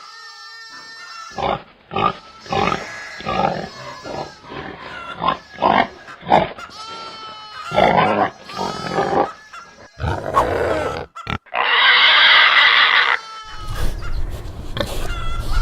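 Pigs grunting in many short grunts, one after another, with a loud squeal lasting about a second and a half roughly twelve seconds in.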